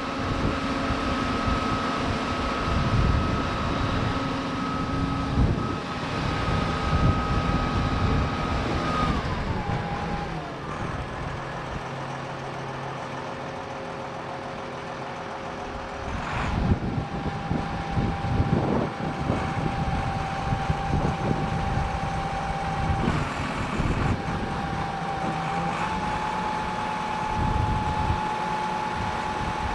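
Diesel engine of a 1987 Kalmar DC12-1200 12-tonne forklift running, with a steady high whine over it. The whine drops in pitch about nine seconds in and the engine goes quieter for a few seconds, then picks up again.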